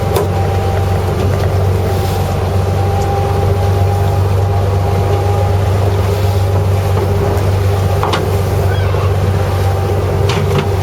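A fishing boat's engine running steadily with a constant low hum, with a few faint clicks or knocks: about a second in, near two-thirds through and near the end.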